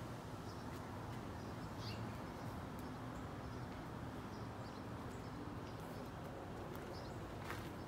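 Outdoor background with faint, scattered bird chirps over a steady low hum. A brief rustle comes near the end.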